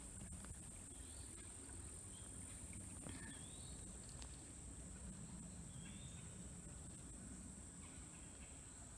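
Steady high-pitched drone of insects, with a few short bird chirps now and then over a low rumble.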